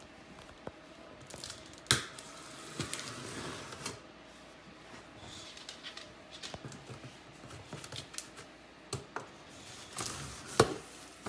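Cardboard box and packaging being handled: scattered clicks and knocks over light rustling, with sharper knocks about two seconds in and again near the end.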